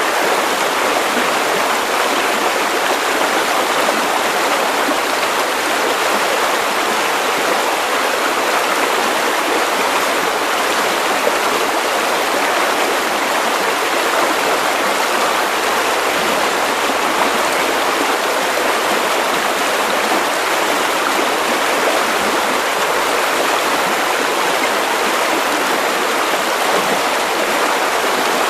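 Steady white noise: an even, unbroken hiss, fuller in the middle and treble and thin in the bass, with no rise, fall or break.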